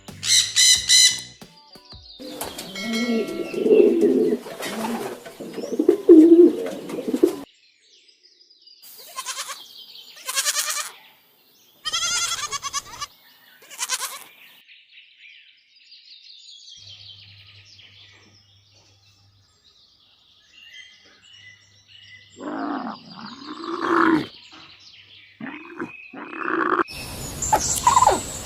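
A series of separate bird calls, each a few seconds long, one after another with short silences between them.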